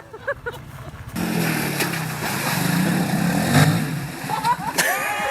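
A small motorcycle engine comes in about a second in and revs, its pitch climbing for a couple of seconds and then falling back.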